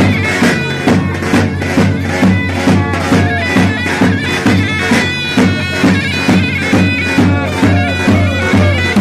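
Loud traditional Turkish folk music: a shrill reed wind instrument plays a sustained melody over a steady drum beat of about two strokes a second.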